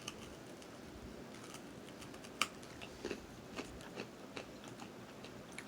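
Faint chewing and biting on a very hard black sesame candy: scattered sharp crunchy clicks, the loudest about two and a half seconds in.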